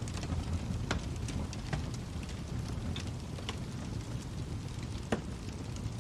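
Wood fire burning in a fireplace: a steady low rushing with scattered sharp crackles and pops, the loudest pop about five seconds in.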